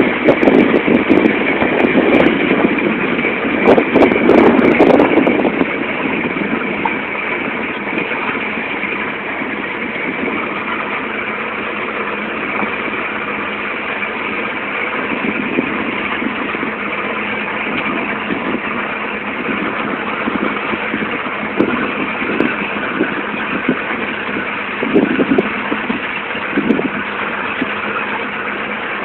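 A boat's motor running steadily under way, with rushing wind and water noise. The rush is louder and gustier for the first five seconds or so, then it settles to an even level.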